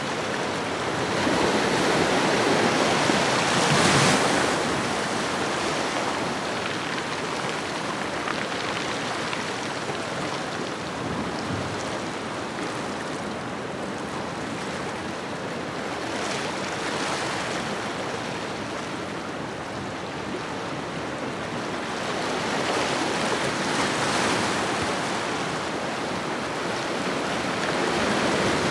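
Ocean waves washing onto a shoreline: a steady rush of surf that swells and eases, the loudest swell about four seconds in and further swells in the middle and near the end.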